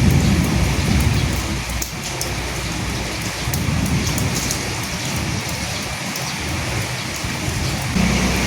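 Steady rain, with individual drops ticking sharply over an even patter and low rumbling swells underneath. A steady low hum sets in abruptly near the end.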